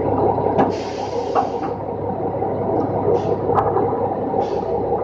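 Roll-off truck's engine and hydraulic hoist running steadily while a compactor box is being hooked. Several short hisses and a few sharp metallic clicks come over the drone, the first hiss about a second in and lasting about a second.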